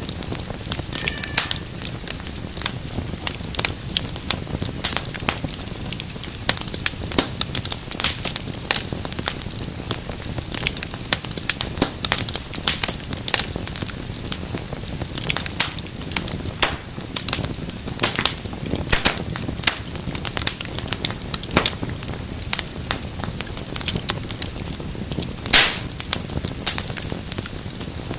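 Wood fire crackling in a fireplace: frequent sharp pops and snaps over a steady low rumble of the flames, with one louder pop near the end.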